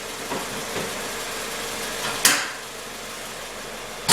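2006 Toyota Corolla's four-cylinder engine idling with the ticking noise its owner is chasing, which he suspects comes from the intake manifold or the exhaust. A single sharp knock about two seconds in.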